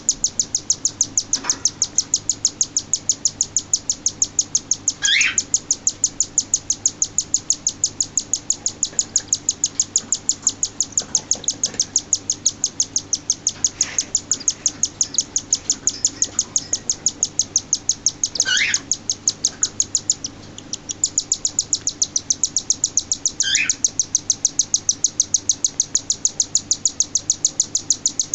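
Six-day-old cockatiel chicks begging while being fed: a rapid, even run of high chirps at about four a second, pausing briefly about twenty seconds in. Three louder falling squawks stand out along the way.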